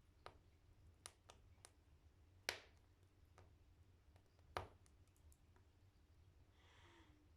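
Firewood burning in an open-door wood stove, crackling quietly: scattered sharp pops, with two louder ones about two and a half and four and a half seconds in, and a brief soft hiss near the end.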